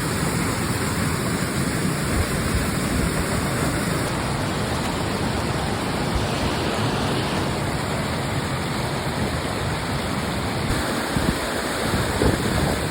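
Large waterfall pouring and splashing: a loud, steady rush of falling water.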